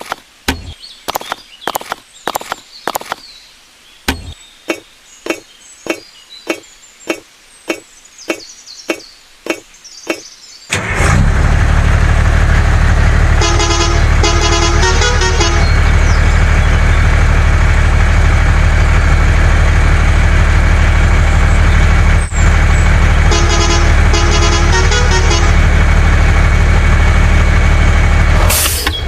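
A run of sharp knocks, about one or two a second, for roughly the first ten seconds. Then a tractor engine starts up loudly and runs steadily, with a horn tooted in two short stuttering bursts, the second about ten seconds after the first.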